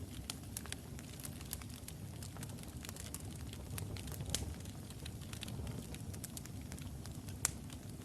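Logs burning in a fireplace: a steady low rumble of the flames with irregular crackles and small pops, the sharpest pops about four and a half seconds in and near the end.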